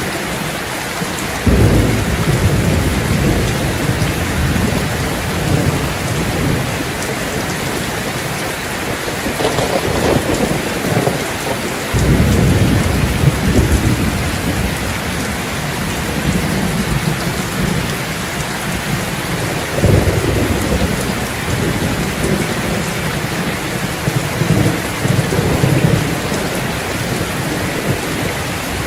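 Steady rain falling, with low rumbles of thunder rolling in several times, the strongest starting suddenly a couple of seconds in and again about halfway through.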